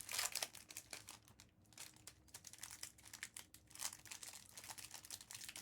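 Foil wrapper of a Topps Chrome trading-card pack crinkling and being torn open by hand, in a quick run of sharp crackles.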